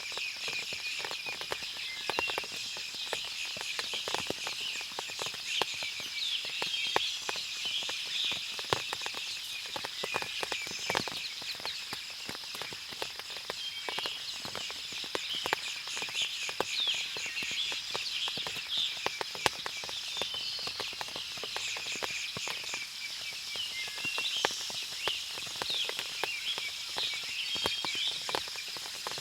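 Forest ambience after rain: many birds chirping and calling over a steady high insect drone, with irregular sharp ticks of water dripping from the leaves.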